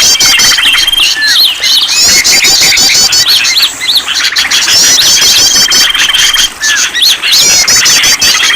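Several songbirds calling at once in a bird-lure (pikat) mix: fast trilled and repeated chirps overlap with short rising notes and a held high whistle that comes back a few times.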